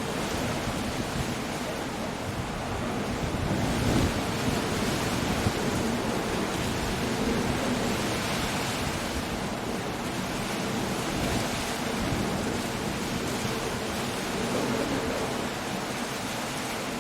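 Coastal storm ambience: surf breaking and wind blowing in a continuous rush of noise that swells about four seconds in and again around the middle.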